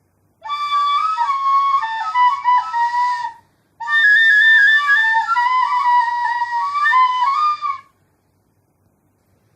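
Seruling, an Indonesian bamboo flute, playing a short melody in two phrases with a brief pause between them, the notes changing pitch with some breathy slides.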